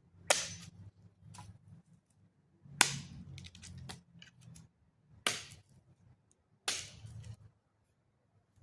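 Four loud, sharp cracks, one to two and a half seconds apart, each dying away within about half a second.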